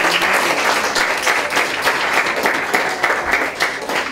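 Audience applauding with dense hand clapping, with a few cheering voices; the applause stops abruptly near the end.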